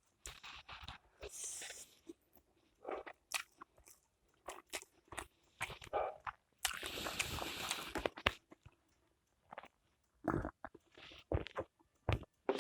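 Close-up eating sounds of spicy hot pot instant noodles: chewing and biting with scattered wet clicks and smacks, and a longer noisy stretch of about a second and a half a little past the middle.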